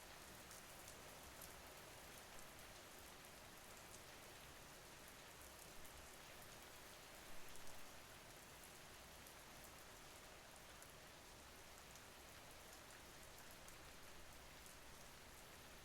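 Faint steady rain: an even hiss with scattered drops ticking, and a brief soft bump about seven seconds in.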